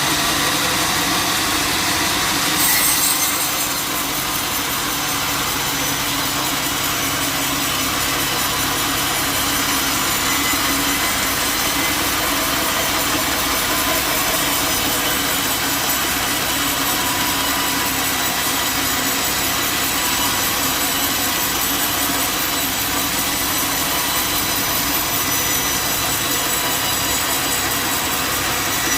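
Sawmill saw cutting steadily through wood, with a brief louder swell about three seconds in.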